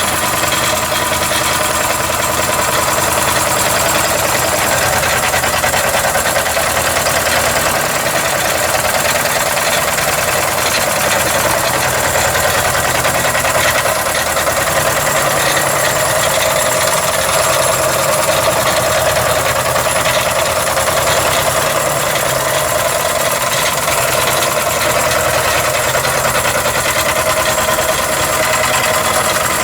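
Model Mamod V8 steam engine running steadily on compressed air instead of steam, with a continuous hissing exhaust.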